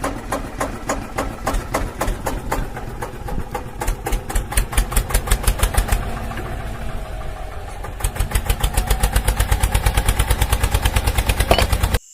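Miniature diesel engine running with a fast, rhythmic chugging. The beat is uneven at first, then from about two-thirds of the way in it turns strong and even at roughly ten beats a second.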